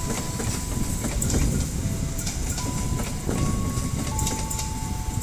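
Passenger coaches of a train rolling past on the track: a steady rumble with the clatter of wheels over rail joints.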